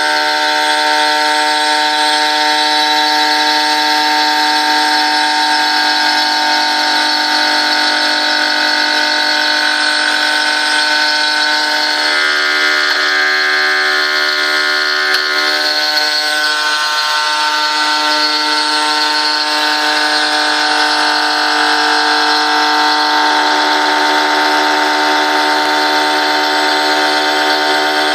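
CNC router spindle milling aluminium: a steady whine of several tones over cutting noise, the tones shifting twice as the cut goes on.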